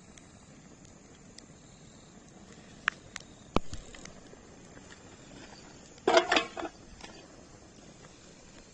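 Wood bonfire burning: a soft steady background with a few sharp pops around three seconds in and a louder cluster of crackles about six seconds in.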